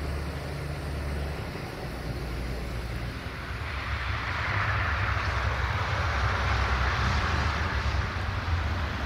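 Diesel train approaching: a low engine rumble throughout, with a rushing noise that grows louder from about four seconds in as it draws near.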